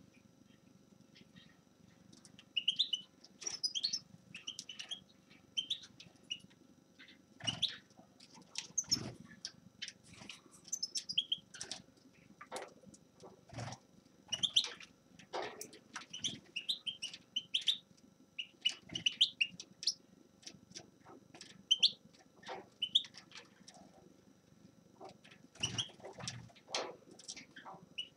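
A finch chirping in short, quick notes, off and on, mixed with soft knocks and flutters.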